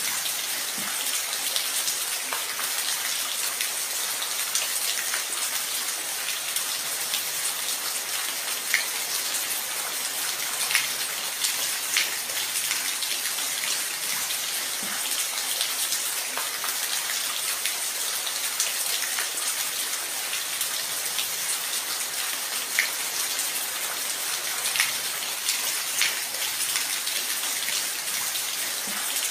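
Steady rainfall: an even hiss of rain with scattered louder drops striking close by.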